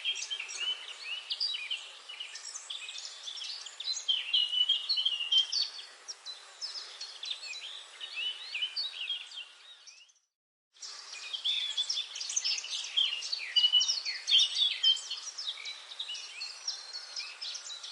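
Forest birdsong: many songbirds chirping and singing at once over a faint hiss. The sound cuts out completely for under a second about ten seconds in, then the chorus resumes.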